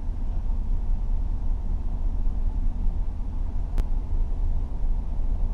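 Car interior while driving: steady low road and engine rumble, with a single sharp click about four seconds in.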